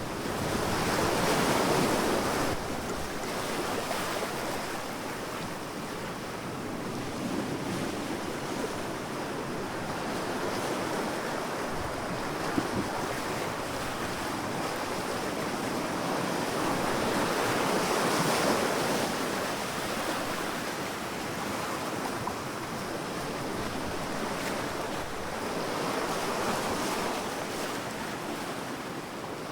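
Sea waves breaking and washing up on a sandy beach, a steady surf noise that swells in slow surges. It is loudest about two seconds in and again around eighteen seconds, with a softer swell near twenty-six seconds.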